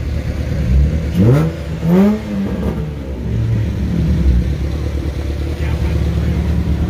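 A car engine idling with a steady low rumble, blipped twice about a second apart, each rev rising in pitch and falling back.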